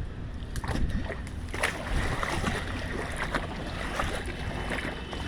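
Rainwater sloshing and splashing on a flooded flat roof with scattered small splashes, over a steady low rumble of wind on the microphone.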